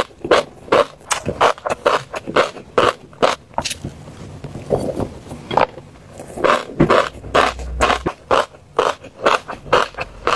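Fish roe making short, irregular crackling and scraping sounds, several a second.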